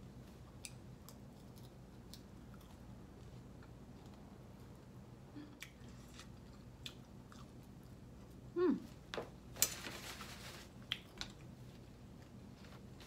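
Close-up chewing of food, with small wet mouth clicks over a low steady hum. About nine seconds in comes a short falling voice-like sound, followed by a louder stretch of breathy noise.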